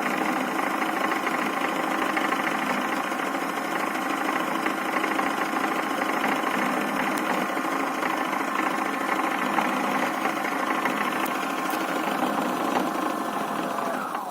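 Toy Miele washing machine's small electric motor running steadily, turning the drum, then winding down with a falling whine near the end.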